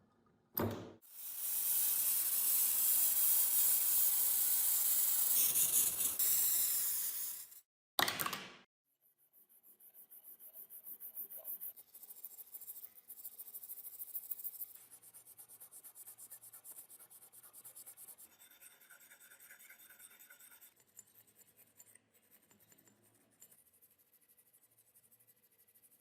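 A loud spray hiss lasting about six seconds that cuts off sharply, followed by a quieter, uneven rubbing on the work piece for the rest of the time.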